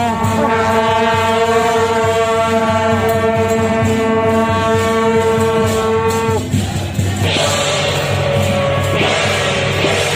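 Temple procession music: long, steady, held wind-instrument notes that stop after about six seconds, then a bright crashing wash like cymbals takes over.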